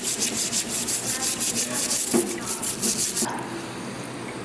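Rapid back-and-forth scrubbing strokes, about eight a second, working grime off a dirt bike engine part. The strokes stop about three seconds in.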